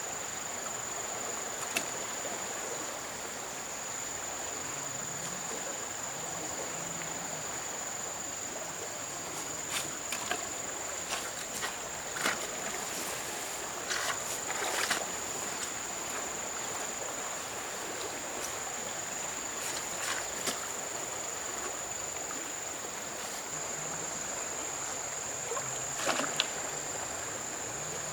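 River-side ambience: a steady high-pitched insect drone over a constant wash of water, broken by a handful of short sharp splashes or knocks.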